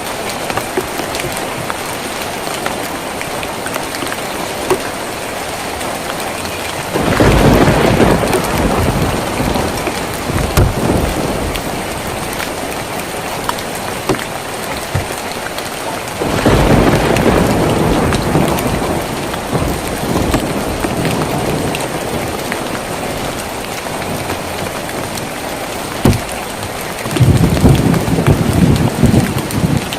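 Steady rain drumming on a tin roof, with three low thunder rumbles building up about a quarter, half and nine-tenths of the way through and each lasting a few seconds, and a single sharp tick shortly before the last one.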